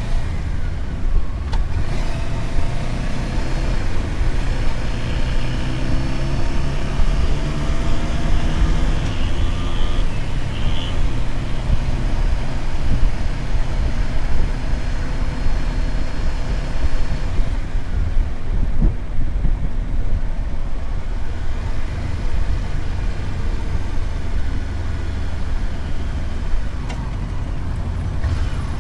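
Motorcycle engine running under way through city streets, with wind rush and road noise over a steady low rumble. The engine pitch rises several times between about 4 and 10 seconds in as it accelerates.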